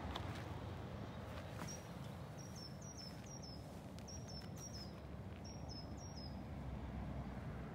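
A small bird chirping: short, high, falling calls in quick runs of three or four, repeated four times, over a steady low rumble of wind on the microphone.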